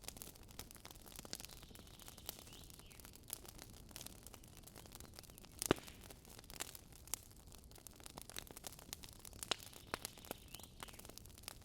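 Wood campfire crackling, with irregular sharp pops over a low steady hiss of burning; one louder pop a little past the middle.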